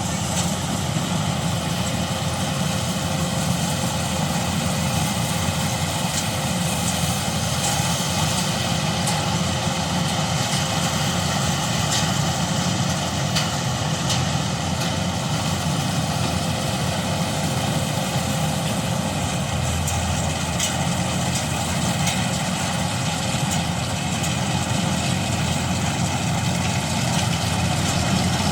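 Combine harvester running with a steady engine drone, a few faint clicks here and there.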